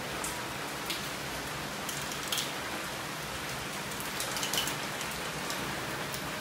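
Heavy rain pouring steadily in a rainstorm, with a few sharper ticks of drops landing close by.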